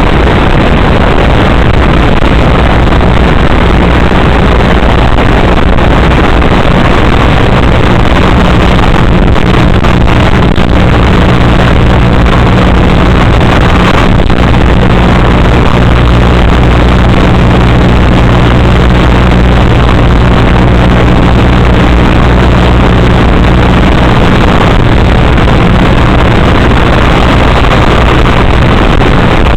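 An RC car heard through its onboard FPV camera as it drives: loud, steady, distorted noise with a low, unchanging hum under it.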